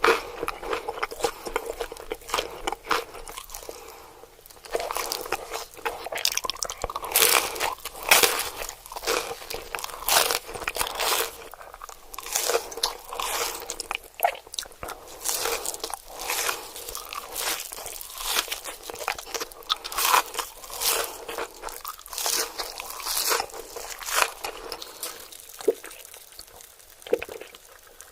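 Close-miked crunchy bites into crispy food, one after another in quick irregular clusters, with crackling as the crust breaks.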